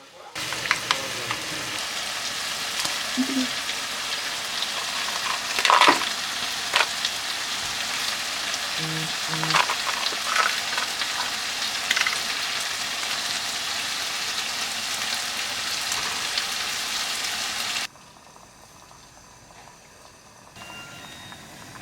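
Food sizzling as it fries in a pan, with scattered clicks and knocks of stirring. The sizzle cuts off suddenly near the end.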